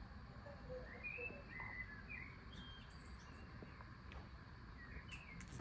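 Faint songbird chirps, a few short notes about a second in and again near the end, over a steady hiss of background noise.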